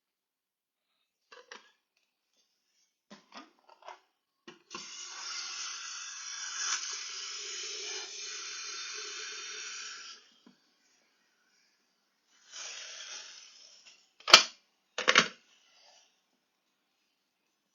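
Household handling noises while bird food is prepared: a few soft clicks, then a steady rushing noise for about five seconds, a shorter rush, and two loud sharp knocks near the end.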